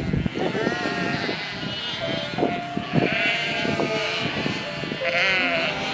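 A herd of livestock bleating, with many calls overlapping one another.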